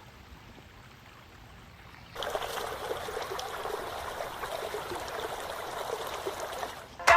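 Water running and trickling in a steady splashing rush with small scattered drips. It cuts in abruptly about two seconds in, after faint background noise.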